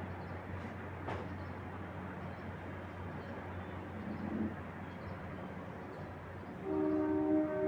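Steady outdoor ambience of wind-like rushing noise over a low steady hum. Near the end a louder sustained horn-like tone of several notes sounds at once, like a distant train horn.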